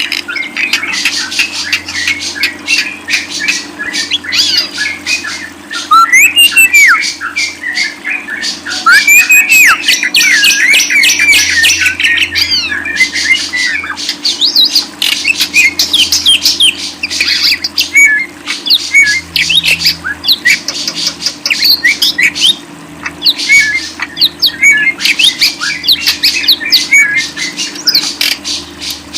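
Cage birds chattering and squawking in a fast, unbroken stream of high chirps, quick gliding whistles and harsh calls, loudest about six seconds in and again from about nine to thirteen seconds in, over a low steady hum.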